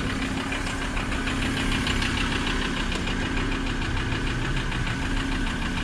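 Car engine idling with a fast, regular knock: rod knock, the sign of a worn connecting-rod bearing.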